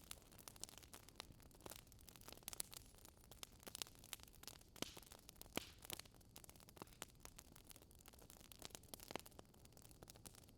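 Wood fire crackling in a fireplace: faint, irregular pops and snaps over a low hiss.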